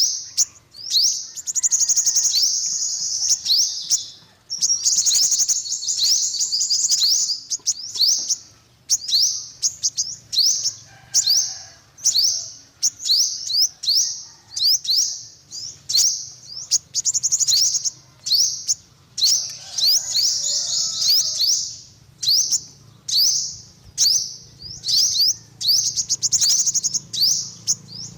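Yellow-bellied sunbird singing: a fast string of high, thin chirps broken up by several longer rapid trills.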